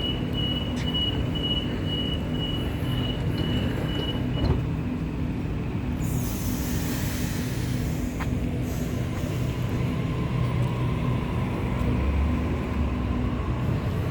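Sydney Trains Waratah electric train departing a platform. A high pulsing beep sounds for the first four seconds or so, and a hiss of air comes about six seconds in. A steady hum runs under it all, with a motor whine coming in from about nine seconds as the train pulls away.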